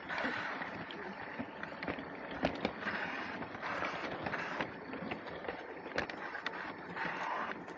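LEGO train running along plastic track: a steady rolling rumble with scattered irregular clicks.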